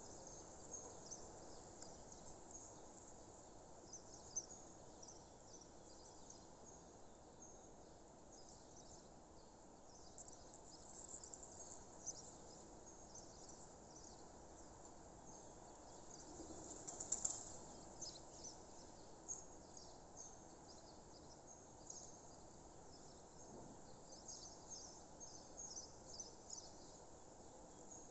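Faint birds chirping: many short, scattered high chirps over a low steady background hiss, with one louder burst of sound about seventeen seconds in.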